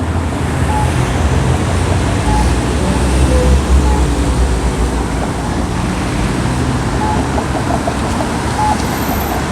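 Downtown street traffic on wet roads: a steady hiss with the low rumble of passing vehicles. A short, high beep repeats about every second and a half.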